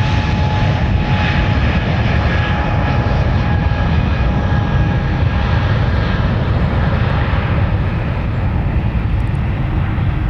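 Jet airliner's engines at takeoff power: a loud, deep, steady rumble with a high whine over it that fades out over the last few seconds.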